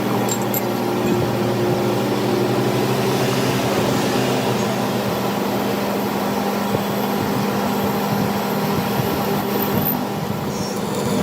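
A machine running steadily: a continuous hum with a few steady tones.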